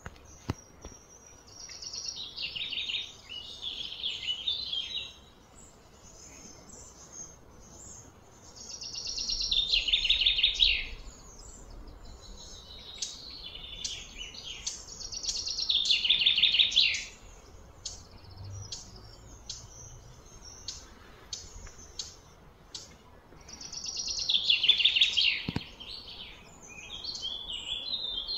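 A bird calling in high-pitched, rapidly pulsed phrases of two to three seconds each, repeated about every six to seven seconds, over faint outdoor background noise.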